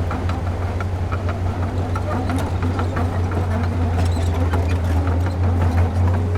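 A heavy construction machine's diesel engine running steadily with a deep hum, with scattered light clanks and rattles over it.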